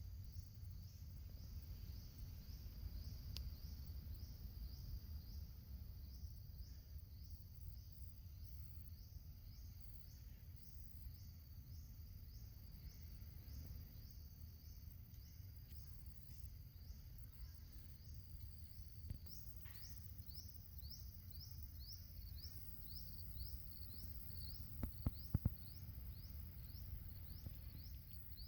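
Faint outdoor ambience: a high-pitched chirp repeated about twice a second, fading out for a while in the middle and coming back stronger, over a steady low rumble. A few sharp clicks sound near the end.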